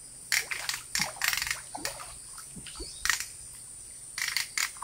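Irregular short crackling and rustling noises, a dozen or so in clusters, over a steady high-pitched insect drone.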